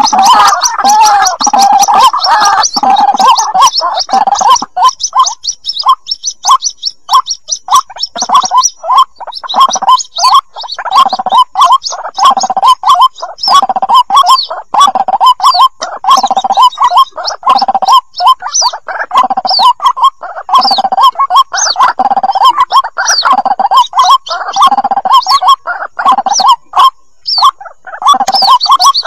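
Recorded calls of white-breasted waterhen chicks, played as a lure for trapping waterhens: rapid high chirps over a dense run of gurgling mid-pitched calls. From about ten seconds in, a low pulse repeats roughly every three-quarters of a second.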